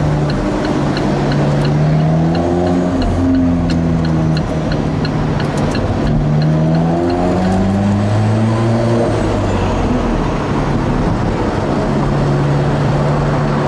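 Alfa Romeo 4C's turbocharged four-cylinder engine heard from inside the cabin, rising in pitch in short pulls with several quick upshifts, then settling to a steady run near the end. A quick, regular light ticking sounds over it for the first half.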